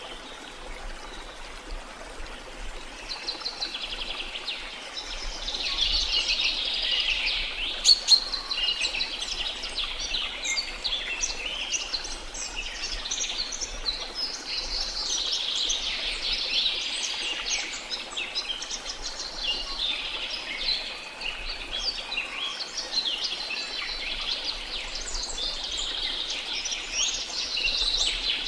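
A chorus of many birds chirping and calling, sparse for the first few seconds and then near continuous, over a faint steady wash of running water. A single sharp click about eight seconds in is the loudest moment.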